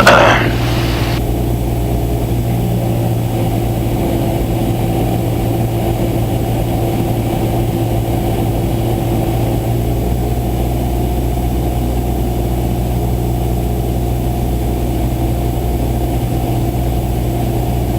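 Cabin drone of a Cessna 172SP in cruise flight: its Lycoming four-cylinder engine and propeller running at a steady, unchanging pitch.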